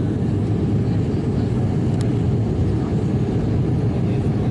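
Cabin noise of an ATR 72-600 turboprop in flight: the steady low drone of its Pratt & Whitney PW127M engines and propellers. A faint click sounds about two seconds in.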